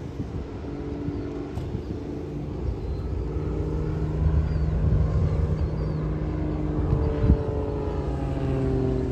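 Propeller aircraft flying over: a steady engine drone that grows louder, its pitch falling slightly near the end as it passes.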